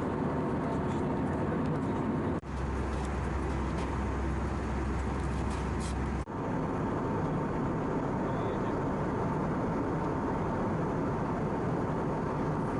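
Airbus A319 cabin noise in flight: a constant roar of airflow and CFM56 engines with a faint steady hum. Two brief drop-outs come about two and a half and six seconds in, and between them the deep rumble is stronger.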